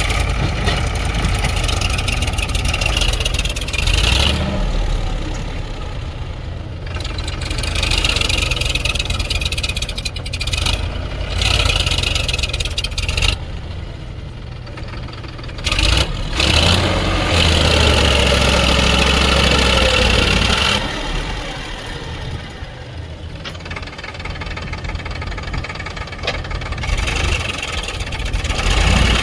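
Heavy diesel machinery engines running at a mud-loading site, the engine sound swelling and dropping several times as the machines work.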